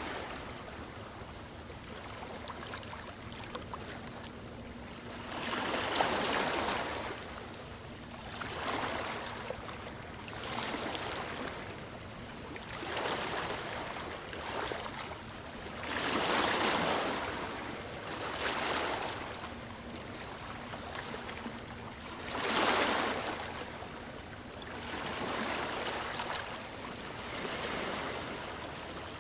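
Ocean waves washing onto a shore, each surge swelling and fading every few seconds, with the biggest breakers about six, sixteen and twenty-three seconds in.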